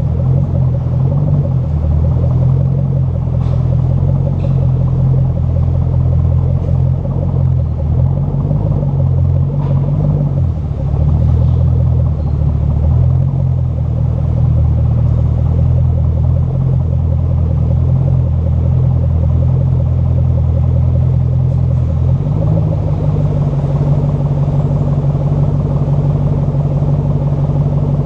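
Ford Mustang 4.6 V8 exhaust running with a steady deep rumble, its pitch stepping up to a higher steady level about three quarters of the way through as engine speed rises.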